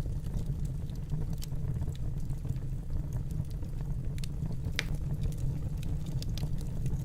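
Wood fire burning in a fireplace: a steady low rumble with scattered crackles and pops, one sharper pop about five seconds in.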